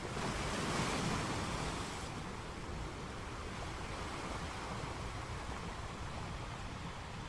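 Sea surf: a wave breaks and washes in, swelling louder about a second in, then eases into a steady rushing wash.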